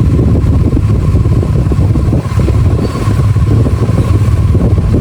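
Bajaj Dominar 400 motorcycle running under way, a steady low engine rumble.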